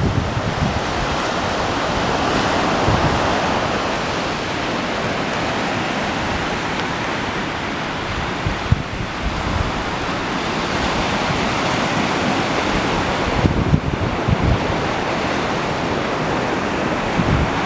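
Ocean surf: waves breaking on a beach as a steady rushing wash, with wind buffeting the microphone in a few low gusts near the end.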